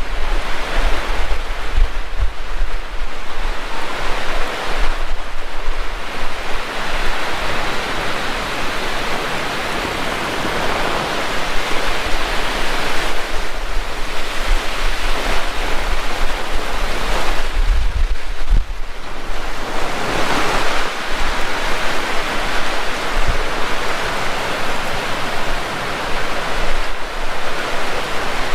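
Heavy rain pouring steadily, swelling and easing, with strong wind gusting across the microphone in low rumbles, hardest at the start and about two-thirds of the way through.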